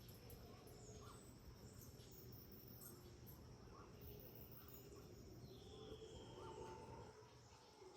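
Faint tropical rainforest dawn chorus: many birds calling with short chirps, one long falling whistle about five and a half seconds in, over a steady high insect drone.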